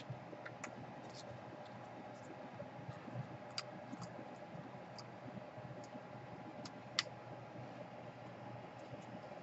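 Light scattered clicks and ticks of small laptop parts and wires being handled, with one sharper click about seven seconds in, over a faint steady hum.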